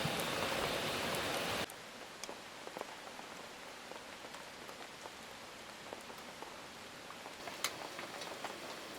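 Rain: a dense, loud hiss of rainfall that cuts off suddenly about one and a half seconds in, giving way to quieter, lighter rain with scattered individual drops ticking.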